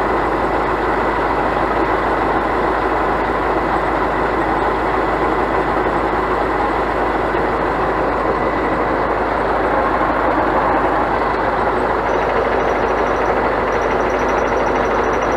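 Diesel engine of a Scania crane truck running steadily.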